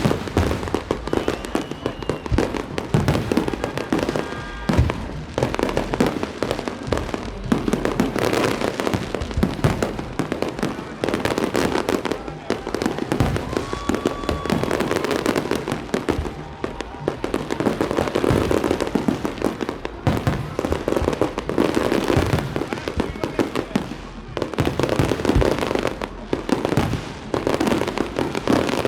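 Fireworks and firecrackers going off without a pause: a dense, continuous crackle of pops and bangs, with louder single reports standing out now and then.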